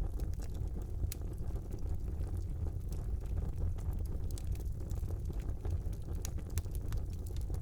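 Wood fire burning in a brick fireplace: a steady low rumble of the flames with scattered sharp crackles and pops from the burning logs.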